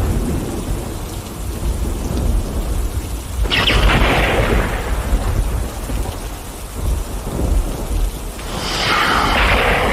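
Thunderstorm: a continuous deep rumble of thunder under steady rain, with a sudden louder, hissing surge about a third of the way in and another near the end, each fading over a few seconds.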